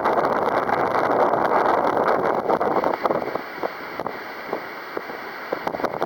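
Strong wind buffeting the microphone: a loud rushing noise that eases about halfway through, leaving gusty crackles and pops.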